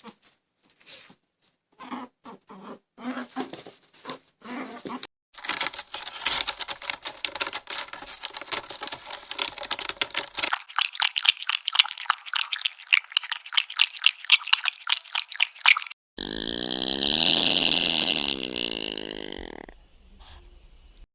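A run of animal sounds: short separate grunts for the first few seconds, then a long stretch of rapid crunching or pattering, then one long, loud pitched call about sixteen seconds in that fades out after about four seconds.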